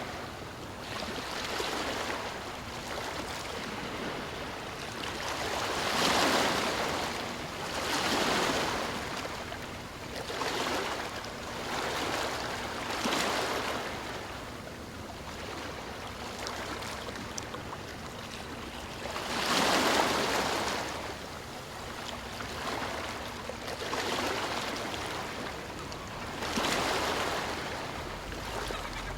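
Sea waves washing in, one surge of surf after another every two to three seconds, the loudest around six and twenty seconds in.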